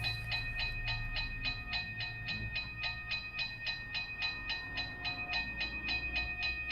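Toy railroad crossing's electronic bell sound played through its small speaker, striking evenly at about four rings a second. A low hum runs underneath and fades out near the end, just before the bell stops.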